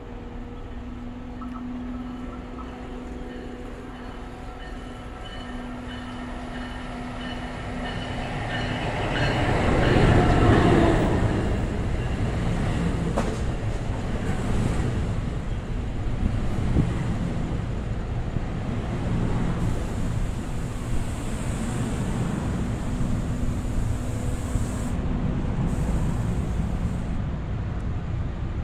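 A passenger train approaches and passes at speed on the rails. There is a steady hum at first, the sound is loudest about ten seconds in as the head end goes by, and then the cars rumble past steadily.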